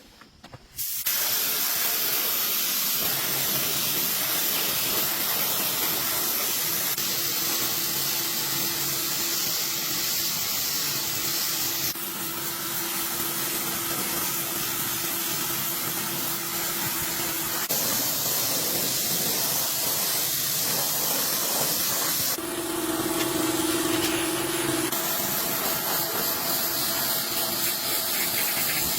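Loud, steady hissing of rushing air or spray. It comes in several spliced stretches that change abruptly, some with a faint steady hum beneath.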